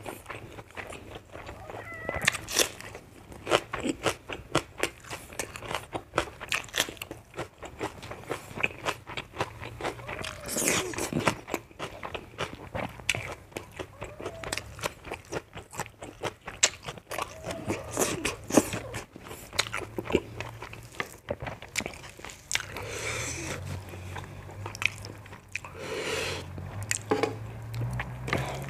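Close-up chewing of a hand-eaten meal of rice and fried pork sausage: wet mouth and lip smacks with many sharp clicks, without a break.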